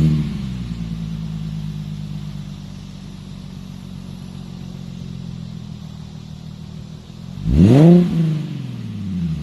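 Infiniti G37x's 3.7-litre V6 running with the mufflers removed, coming down from its start-up flare into a steady idle. Near the end it gives one quick rev that rises and falls straight back to idle.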